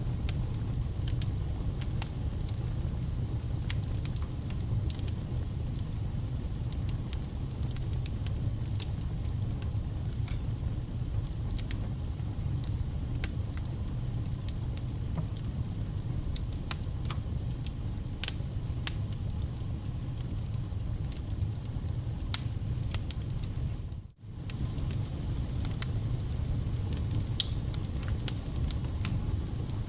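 Wood fire burning: a steady low rumble with frequent small crackles and pops of burning logs. The sound drops out for a split second about three-quarters of the way through.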